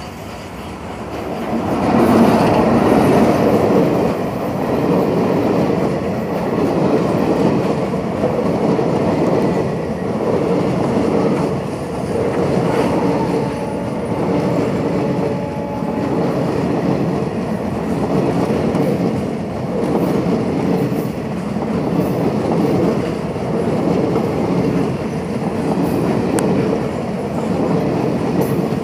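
Express passenger train hauled by a WAM-4 electric locomotive passing close by: the rumble jumps up about two seconds in as the locomotive reaches the spot, then the coach wheels roll and clatter over the rail joints, swelling and fading about every two seconds as each coach goes past.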